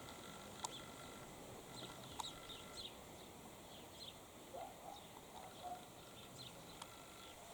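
Faint bird calls: many short, high, downward-sliding chirps scattered throughout, with a few lower calls around the middle, over a faint background hiss.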